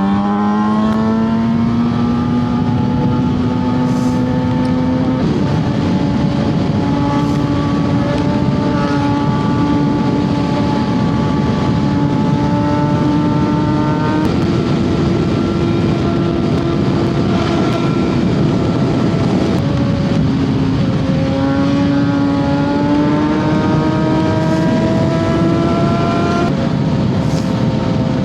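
Suzuki GSX-R750 inline-four engine running under way, its pitch climbing slowly with speed, dipping about twenty seconds in and then climbing again, over a steady rush of wind.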